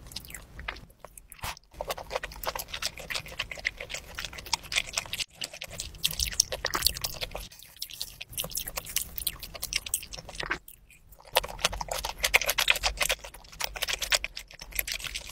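Close-miked chewing of raw fish sashimi: runs of wet, clicky mouth sounds, broken by a few short pauses between bites.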